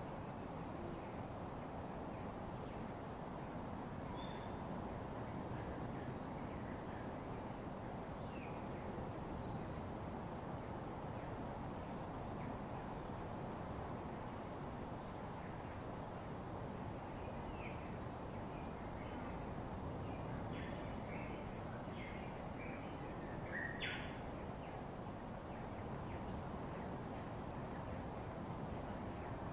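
Outdoor bird soundscape: scattered short bird chirps and calls, busier about two-thirds of the way through, over a steady high insect buzz and a steady rushing background noise.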